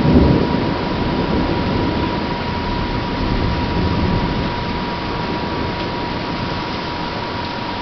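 Thunder rumbling: a low roll that swells just after the start and fades away over several seconds, over a steady hiss.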